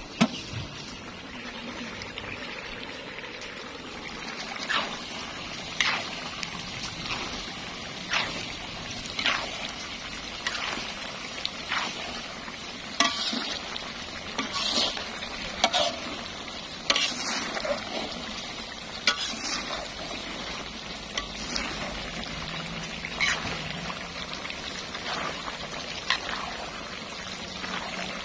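Food frying in a pan with a steady sizzle, stirred with a utensil that scrapes and clacks against the pan at irregular intervals, roughly every second or two.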